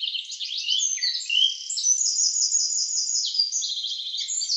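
Birdsong: several birds chirping and trilling at once in quick runs of repeated high notes, with no low sounds under them.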